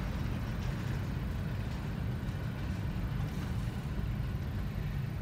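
Freight train of hopper and tank cars rolling slowly past, heard from inside a car's cabin as a steady low rumble.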